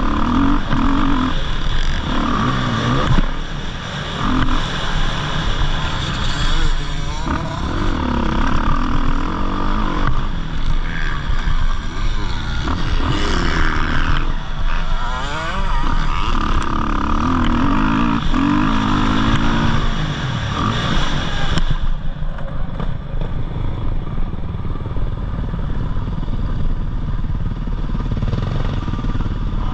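Motocross dirt bike engines revving up and down in repeated swells over a steady low rumble.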